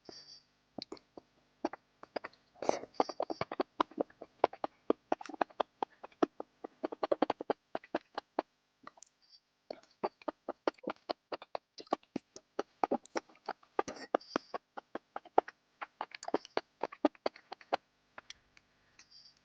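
Close-miked wet, sticky chewing and mouth smacking on gooey food: rapid runs of clicks and smacks, with a short pause about halfway through.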